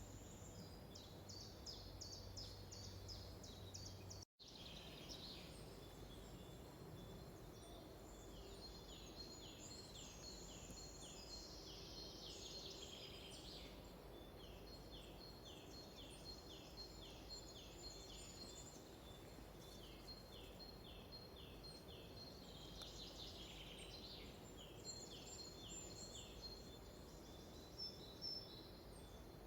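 Faint forest birdsong: several small songbirds singing, with long runs of quick, high, downward-sliding notes over a low, steady background hiss. The sound cuts out completely for a moment about four seconds in.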